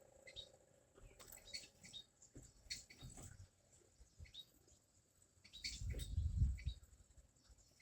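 Small bird chirping: a scattering of short, high chirps that drop quickly in pitch. A louder low rumble comes about six seconds in.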